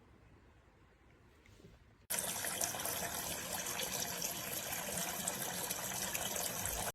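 Water running from a toy play sink's electric faucet and splashing into the basin. It starts suddenly about two seconds in and cuts off abruptly just before the end.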